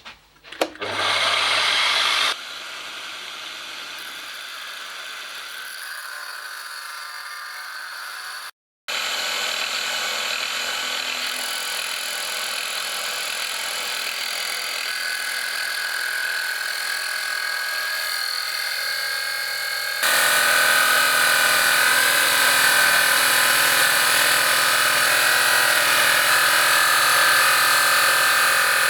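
Milling machine spindle driving an angle-grinder cut-off disc on an arbor, grinding a slit into a metal holder: a steady machine running with a grinding hiss. The level jumps abruptly a few times, with a brief gap near 9 s, and is loudest for the last third.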